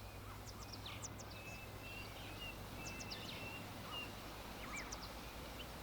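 Faint birdsong: many short chirps and whistles from several birds, scattered throughout, over a low steady hum.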